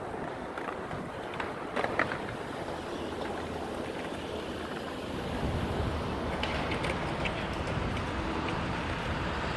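Steady city background noise: traffic rumble with wind on the microphone. The rumble grows a little louder about halfway through, and a few short, sharp high sounds stand out near the start and again later.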